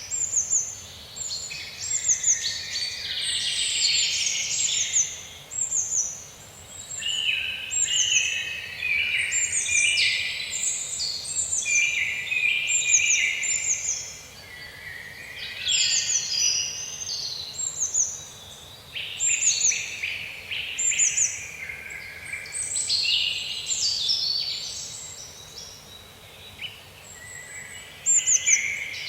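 Several songbirds singing together in a dense chorus: quick, repeated falling whistles over busier twittering, going on without a break.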